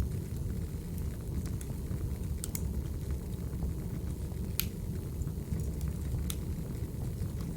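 Wood fire crackling: a steady low rumble with a few sharp pops, the loudest a little past halfway.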